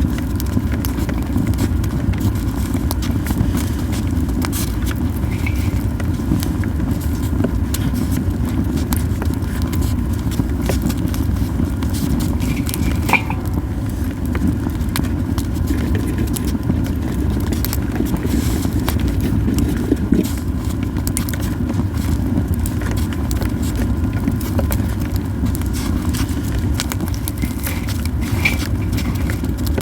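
Yew-wood campfire burning, with frequent small crackles and pops over a steady low rumble.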